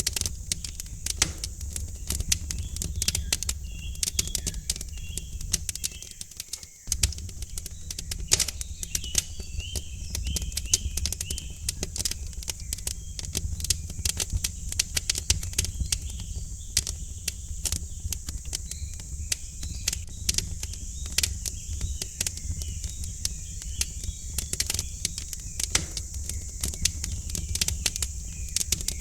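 Wood fire in a fireplace crackling, with frequent sharp pops over a low steady rumble, and small birds chirping faintly behind it. The low rumble briefly drops out about six seconds in.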